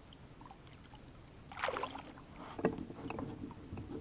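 Handling noises in a fishing kayak: small clicks and rustles, a short rush of noise about one and a half seconds in, and a sharp knock against the kayak a second later.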